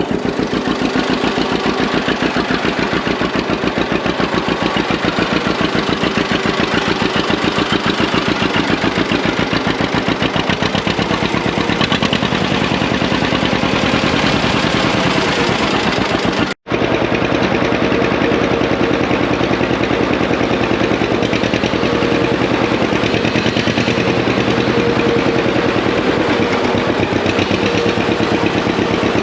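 John Deere 620 two-cylinder tractor engine running with its steady, even beat of popping exhaust pulses. The sound drops out for an instant just past halfway, then carries on.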